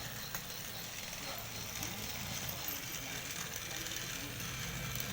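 Two battery-powered toy trains running along their track, their small motors giving a low, steady hum with faint ticking.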